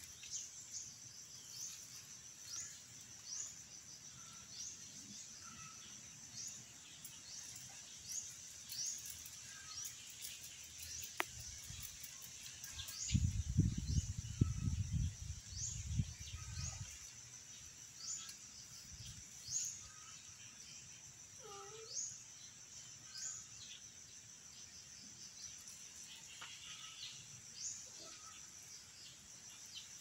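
Birds calling outdoors: a short, high, rising chirp repeats about once a second, over a faint steady high hum and a few softer calls. A low rumble on the microphone lasts a few seconds around the middle.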